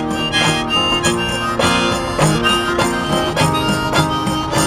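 Harmonica playing a melody over steadily strummed acoustic guitar, an instrumental fill between verses of a folk song.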